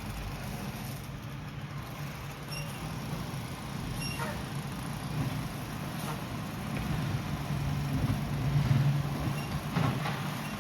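Mack LR side-loader garbage truck's engine running steadily, getting louder towards the end and then easing off, with a couple of brief high squeaks.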